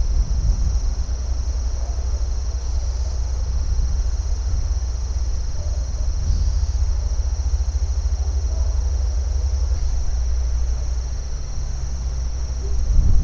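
Steady chorus of insects, crickets or cicadas, a continuous high buzzing that barely changes, over a constant low rumble.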